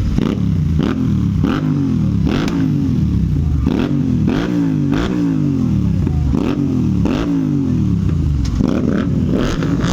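Motorcycle engine revved in quick repeated throttle blips, about one and a half a second, its pitch rising sharply and falling back with each blip.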